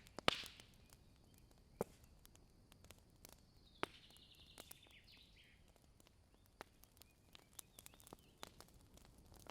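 Campfire of burning wood crackling: scattered sharp pops, the loudest just after the start and others near 2 and 4 seconds, with smaller snaps through the rest. A faint higher hiss runs for a second or two in the middle.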